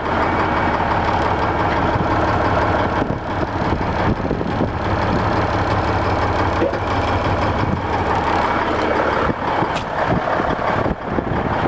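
1994 White/GMC heavy truck's diesel engine running steadily.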